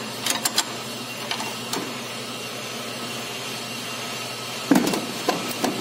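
Hand tools working the nut on a stabilizer link: scattered light metallic clicks and taps, with a sharper knock near the end, over a steady workshop hum.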